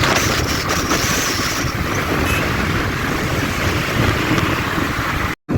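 Steady vehicle noise from riding a motorbike through traffic, with engine, road and wind noise on the microphone. It cuts out abruptly for a split second near the end.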